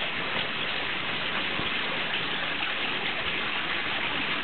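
Steady rain falling and pattering on surfaces, a constant hiss.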